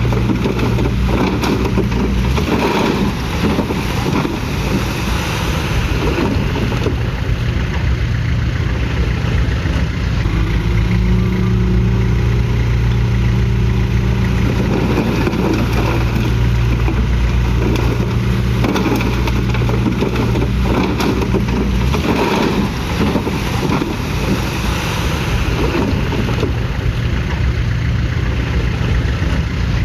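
Komatsu D31PX bulldozer's diesel engine running steadily under load, its pitch shifting in the middle, with frequent irregular knocks and clanks.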